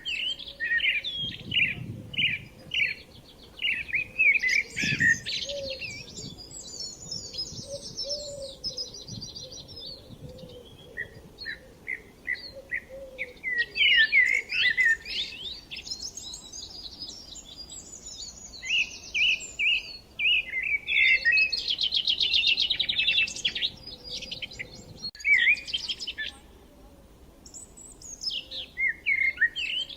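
Songbirds singing: overlapping whistled phrases and rapid trills from more than one bird, with a short lull near the end.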